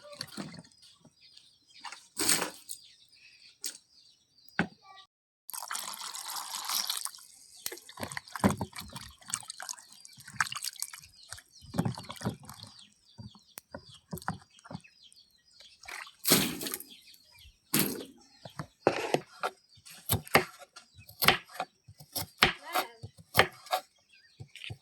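Water splashing and dripping, with a pour or rush of water about five to seven seconds in and many short knocks and clatters.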